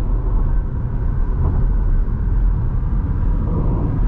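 Steady low rumble of a vehicle in motion, with a faint steady whine on top.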